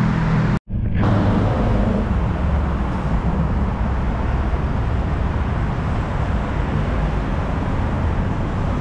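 BTS Skytrain electric train running: a steady low rumble with some low motor hum. The sound drops out completely for an instant about half a second in.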